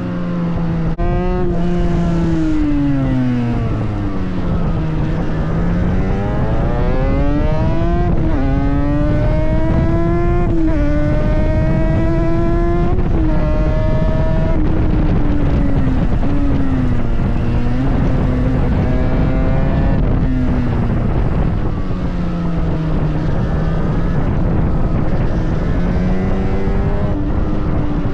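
Yamaha racing motorcycle engine at full throttle on a track: the revs fall in the first few seconds, then climb through three quick upshifts, drop away as it slows and changes down around the middle, and rise again near the end. Wind rushes across the microphone throughout.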